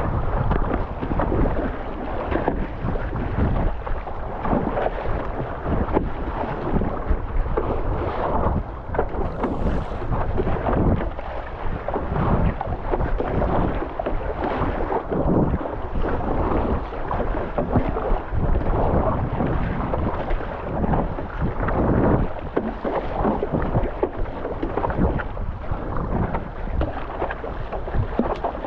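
Wind buffeting the microphone with water splashing and rushing around a stand-up paddleboard, in irregular gusts and surges.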